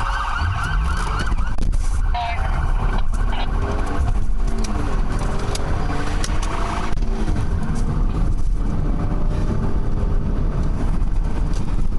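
Police siren in a fast yelp, cutting off about a second and a half in, then the loud steady rumble of the cruiser's engine and road noise heard from inside the car during the pursuit.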